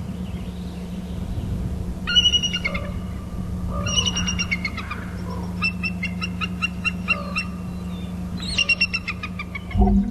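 Eagle calling from its nest: four bouts of high, thin chattering, each made of quick falling notes. The longest and fastest bout comes about halfway through. A steady low hum runs underneath.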